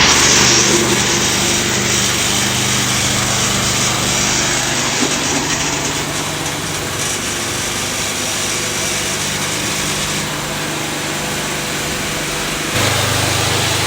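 Four-stroke lawn mower engine running steadily, with its pitch shifting about five seconds in and again near the end.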